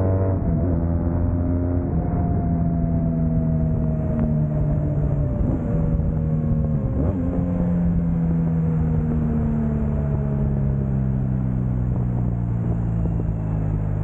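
Motorcycle engine running while riding. Its note slowly falls in pitch, with two brief dips about five and seven seconds in.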